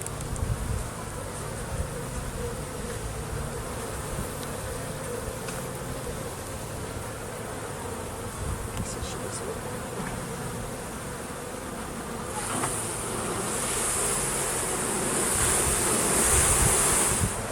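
Honeybees buzzing steadily in a continuous hum around an opened hive during an inspection. About two-thirds of the way through, a high hiss joins and grows louder.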